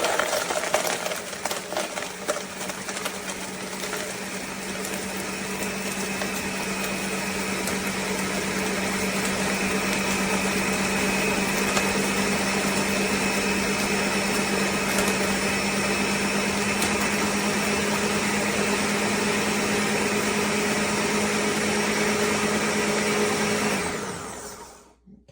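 Ninja NJ601AMZ 1000-watt blender running on speed 1, crushing ice cubes and strawberries in juice. It is loud and choppy for the first few seconds, then settles into a steady whir as the ice is broken down. Near the end it is switched off and winds down with a falling pitch.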